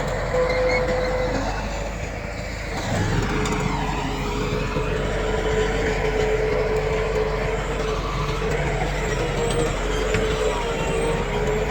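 Heavy diesel earthmoving machinery running steadily, a low engine drone with a constant whine above it; the engine eases off briefly and then picks up again about three seconds in.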